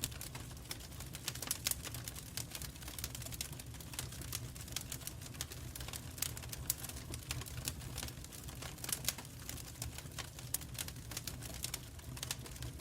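Wood fire in a fireplace crackling, with irregular sharp snaps and pops over a low steady rumble.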